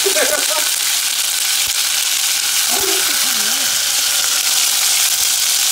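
Soaked dried chili peppers sizzling in a hot skillet, a steady frying hiss as the wet chilies hit the hot pan.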